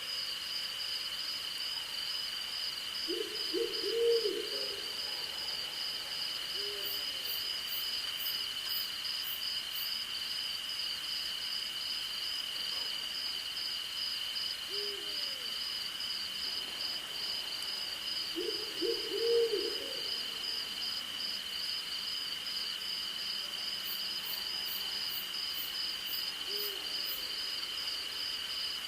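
Night insects and an owl: a steady high trill and a faster, pulsing chirp of crickets run throughout, while an owl hoots in short low groups twice (a few seconds in and near two-thirds through) with single softer hoots between. Short runs of very high, rapid ticks sound twice.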